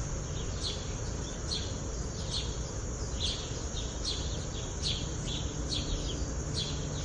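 A bird chirping over and over, short falling chirps about once or twice a second, over a steady background hiss and low hum.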